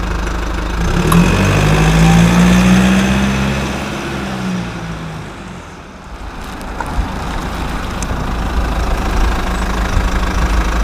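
Car engine running and picking up revs about a second in, its note rising and then fading away over the next few seconds. A steady low engine and road rumble follows.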